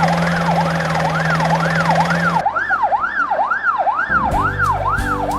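Ambulance siren wailing up and down in pitch about twice a second. Partway through, the low rumble under it drops away, and near the end music with a beat comes in beneath the siren.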